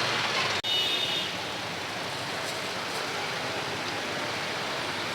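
Steady roadside traffic noise from a busy street, broken by a short gap about half a second in.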